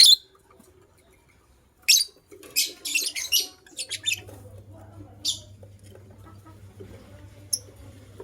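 Lovebirds chirping in short, sharp high-pitched calls: one at the start, another about two seconds in, a quick run of chirps around three seconds, then single chirps scattered toward the end. A low steady hum comes in about four seconds in.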